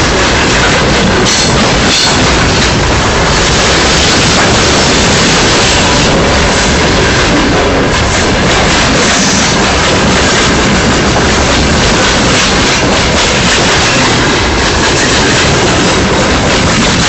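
Train running along the track: a loud, steady noise of wheels on rail with fine clatter.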